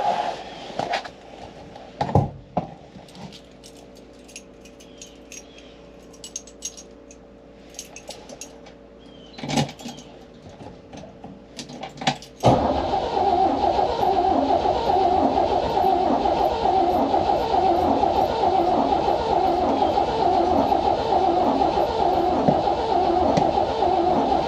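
A few clicks and rattles, then about halfway in the starter of a 1953 Chevy Bel Air's straight-six cranks the engine steadily, evenly pulsing, without it catching.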